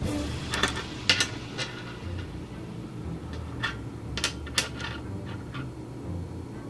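Small steel billet pieces clinking as they are picked up, set down and nudged against one another on the worktable: about ten sharp metallic clicks at irregular intervals, the loudest just over a second in.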